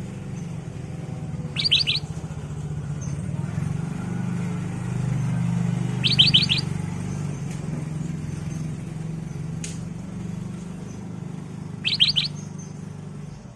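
Black-crested bulbul (kutilang emas) calling: three short phrases of three or four quick high notes, several seconds apart, over a steady low hum.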